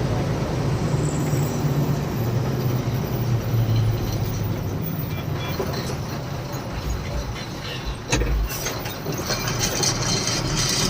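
Loaded truck driving, its diesel engine running steadily under road noise. A low thump comes about eight seconds in, followed by light clicks.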